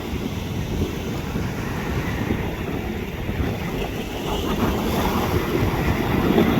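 Strong wind buffeting the microphone, a steady rumbling rush with ocean surf behind it, growing a little louder near the end.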